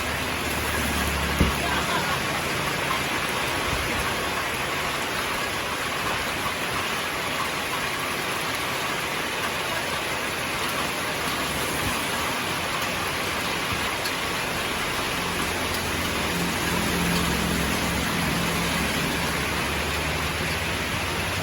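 Heavy rain falling steadily, an even hiss of rain on surfaces. There is one sharp knock about a second and a half in, and a low hum joins in over the last few seconds.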